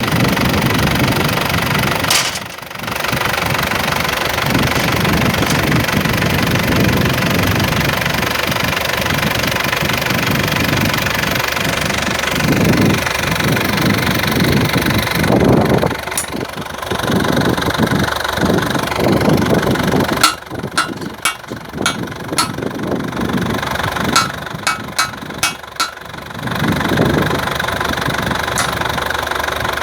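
Hengxing Jinqiao highway guardrail pile driver running steadily. About two-thirds of the way in, its hammer strikes in two runs of sharp blows, about two to three a second.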